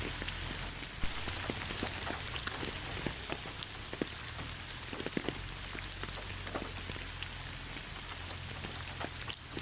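Steady rain falling, an even hiss with many individual drops ticking and pattering irregularly close by.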